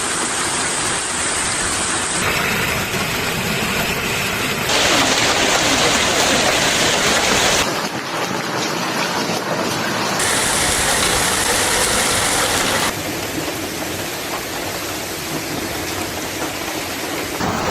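Heavy rain and hail pounding down, a dense steady hiss and clatter. The sound changes abruptly every few seconds, from one storm recording to the next.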